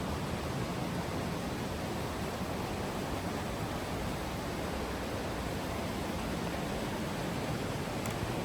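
Steady rushing of the stream's flowing water, an even, unbroken noise.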